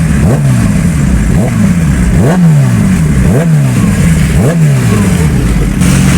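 Superbike engine revved in repeated throttle blips, about once a second, each one jumping up in pitch and sliding back down. Near the end it settles into a steady engine drone.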